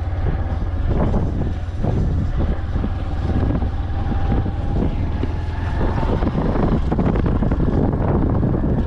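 Wind buffeting the microphone in irregular gusts over a steady deep rumble.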